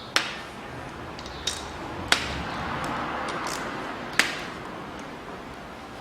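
Hand tools clinking against metal while the oil pump is being unbolted from the engine: four sharp metallic clicks, the loudest about two and four seconds in, with a soft scraping between them.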